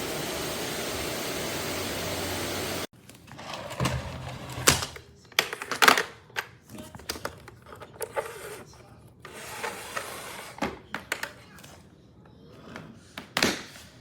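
Eureka WhirlWind bagless canister vacuum cleaner running steadily, cutting off suddenly about three seconds in. A scattered run of sharp clicks and knocks follows.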